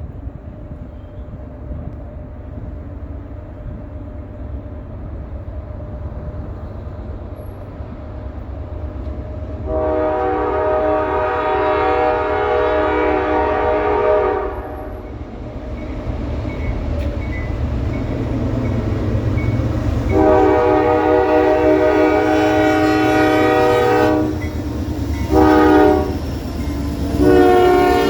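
Norfolk Southern GE Dash 9 diesel locomotive sounding its air horn for a grade crossing: two long blasts, a short one, then a long one, the standard crossing signal. Under it the low rumble of the approaching train grows steadily louder.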